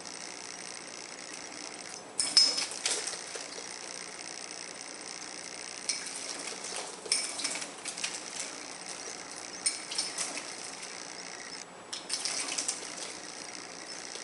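Fischer's lovebird splashing in a small plate of shallow water, in four short bouts of quick splashes and clinks a few seconds apart.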